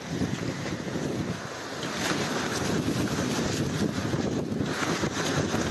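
Storm wind rushing and buffeting the microphone, a dense steady noise that grows a little louder about two seconds in.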